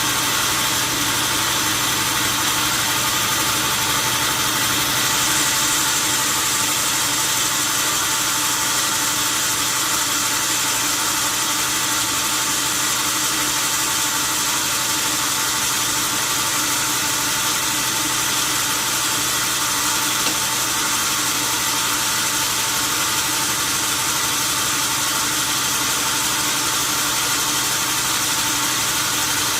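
Steady machine noise: a constant hiss with several steady hums underneath, unchanging throughout.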